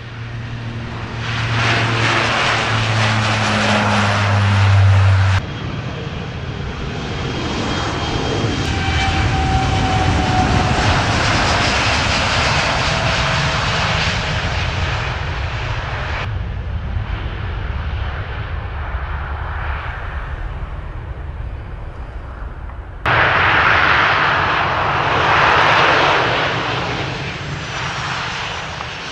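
Airliner engines running loudly during takeoffs and landings, in several short clips joined by abrupt cuts about 5, 16 and 23 seconds in. A faint whine glides slowly downward in the second clip.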